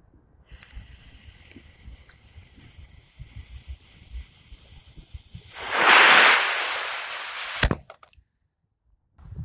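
Something being crushed under a car's tyre: a loud burst of noise about six seconds in that fades over about two seconds, ending in a sharp snap.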